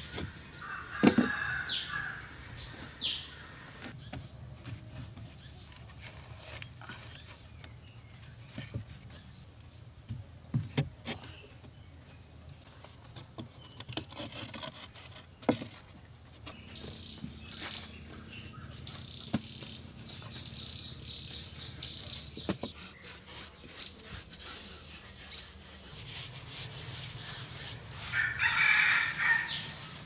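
Rural outdoor ambience: birds chirping and a high, steady insect tone, with scattered sharp knocks and taps from hand work on earth and stone. A rooster crows near the end.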